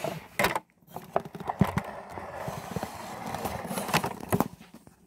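Plastic Playmobil toys being handled and moved on a hard surface: a run of small clicks, knocks and scraping.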